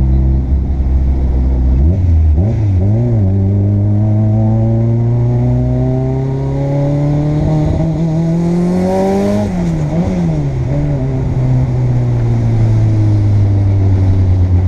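Turbocharged 4A-GE 20-valve four-cylinder engine of a Toyota KE70 Corolla wagon, heard from inside the cabin while driving. After a brief wobble in the revs about two seconds in, the engine pulls with the revs rising steadily for about six seconds, then drops sharply about ten seconds in and eases down to a steady lower note.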